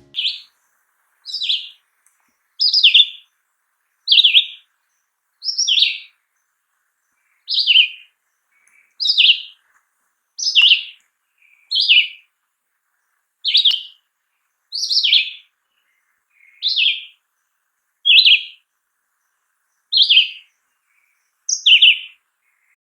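Red-eyed vireo singing: about fifteen short, slurred whistled phrases, each under a second and varying in shape, given one after another with brief pauses of about a second and a half between them.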